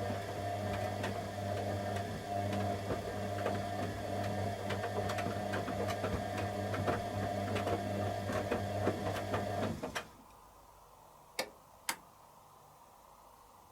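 Candy Aquamatic 100F washing machine's motor turning the drum during the heated wash, a steady hum with light clicking and rattling. It stops abruptly about ten seconds in, and two sharp clicks follow about a second and a half later.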